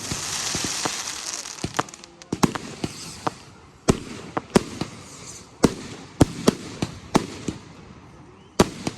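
Fireworks display: sharp bangs of bursting shells at irregular intervals, with a hissing crackle that is loudest in the first second or two.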